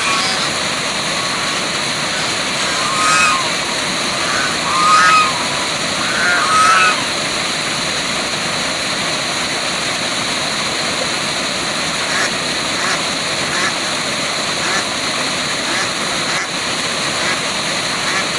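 Waterfall rushing steadily, with a few short honking bird calls, likely waterfowl, about 3, 5 and 7 seconds in, and fainter calls later.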